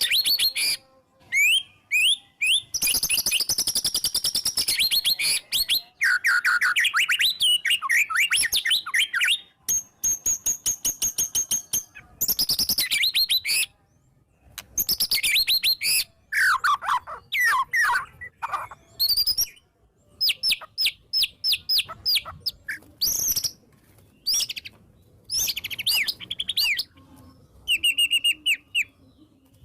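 White-rumped shama (murai batu) singing a loud, varied song of whistled phrases, chattering runs and rapid-fire repeated notes, with short pauses between phrases.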